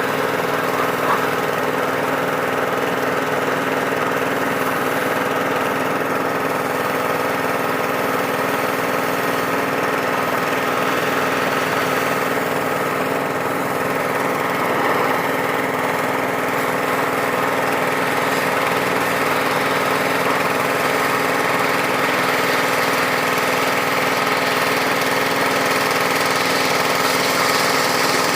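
A small engine running steadily at an even speed, unchanging throughout.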